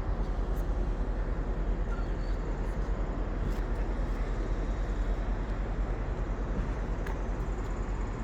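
Steady low rumble of railway station ambience, trains and engines around the platforms, with no single event standing out.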